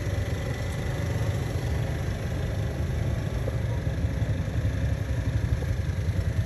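A car engine idling steadily, a low even rumble with a fast flutter and a faint thin whine above it.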